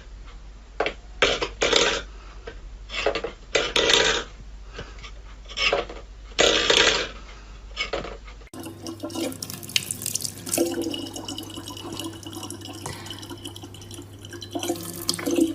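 Water splashing in short, irregular bursts, then after a cut a tap running steadily with a low hum underneath.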